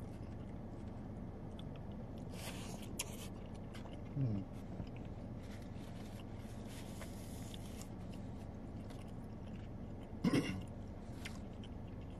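Close-miked chewing and biting of a wet burrito, with scattered small mouth clicks over a steady low background hum. A brief low hum of the voice comes about four seconds in and a louder one about ten seconds in.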